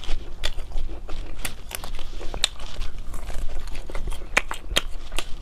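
Close-miked biting and chewing of dried spiced duck collarbone: irregular sharp crunches and clicks as the dry, firm meat and bone are chewed.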